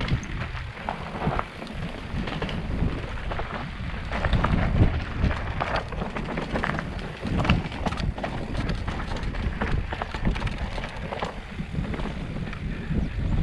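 Wind buffeting the microphone in a steady low rumble, with many irregular clicks and knocks over it.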